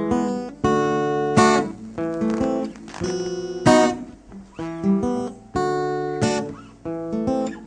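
Acoustic guitar strumming chords, each chord ringing and then cut by the next, with several sharper accented strokes: a live instrumental introduction before the singing comes in.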